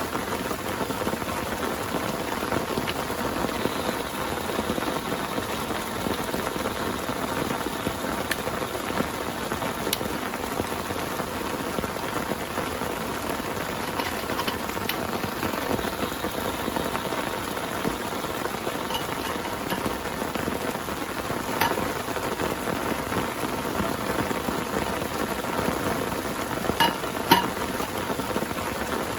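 Heavy rain falling steadily. A few sharp taps come through late on, the loudest near the end.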